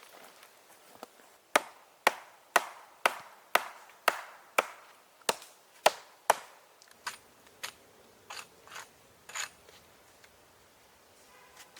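Wood being chopped: about ten sharp blows, roughly two a second, then a few lighter knocks before it stops.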